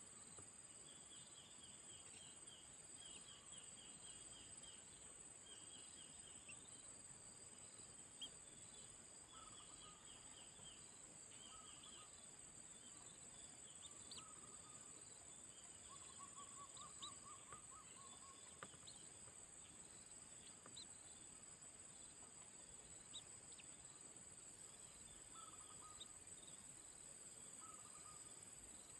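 Faint, steady high-pitched buzzing of insects, with faint bird chirps over it: quick chirping trills in the first several seconds, then short scattered calls.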